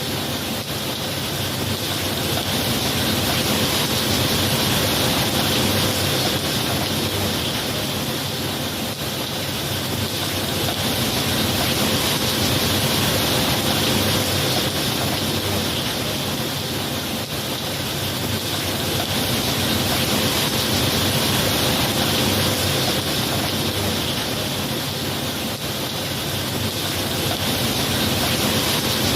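Steady heavy rainfall, a dense even hiss that swells and eases slowly every several seconds.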